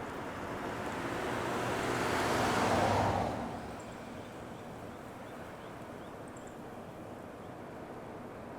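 A vehicle passing close by: rushing noise builds to a peak about three seconds in, then drops quickly to a steady, lower rumble.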